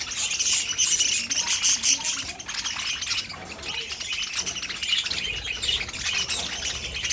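Budgerigars chirping and chattering continuously, a dense run of quick high chirps and warbles.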